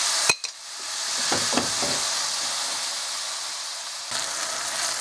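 Diced chicken breast sizzling in hot ghee in a stainless steel frying pan over high heat: a steady frying hiss, with one sharp click about a third of a second in.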